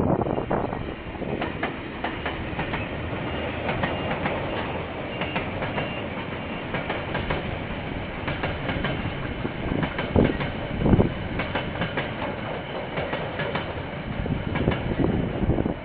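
KiwiRail train passing close by: a steady rolling rumble of railway wagons, with the wheels clacking repeatedly over the rail joints.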